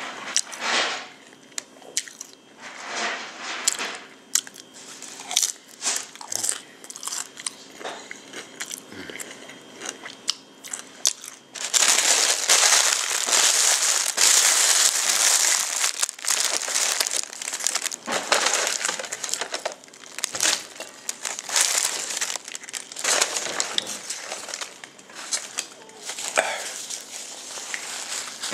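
Close-miked chewing of a crunchy hard-shell taco, with crisp cracking crunches. From about twelve seconds in, louder continuous paper crinkling and rustling takes over.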